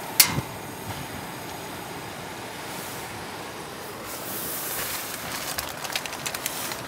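Portable canister gas stove's burner hissing steadily, with a sharp click about a quarter second in and, in the second half, oil starting to crackle in the pan as it heats.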